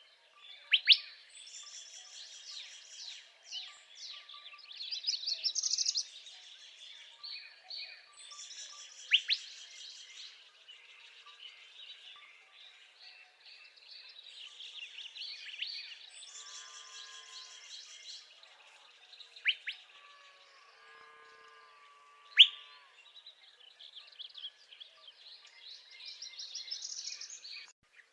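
Northern parula singing: a rising trill that climbs and stops, about four seconds in and again near the end, among other birds singing. Several loud, sharp single notes stand out.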